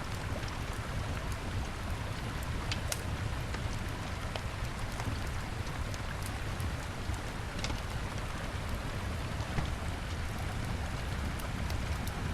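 Wood fire crackling, with scattered sharp pops, over the steady rushing of a river.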